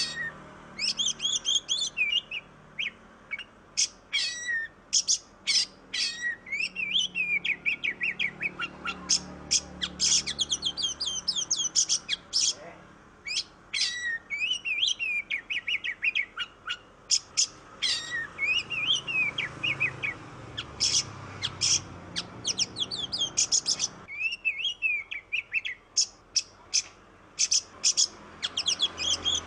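Oriental magpie-robin (kacer) singing continuously: a fast, varied stream of sharp chirps, slurred whistles and trills.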